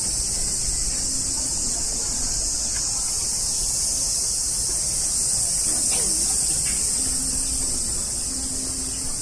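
Steady high-pitched chorus of summer cicadas.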